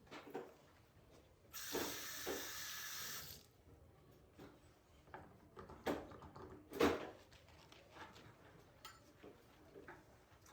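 Kitchen tap running for about two seconds, then turned off, followed by a few short knocks, the loudest about seven seconds in.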